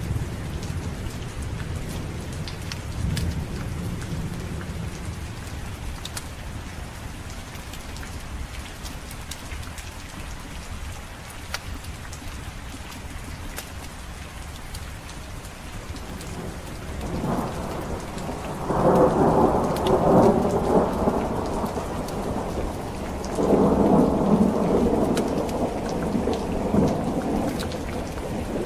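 Steady heavy rain with thunder. A low rumble dies away over the first few seconds, and two louder rolls of thunder come about two-thirds of the way through and again near the end.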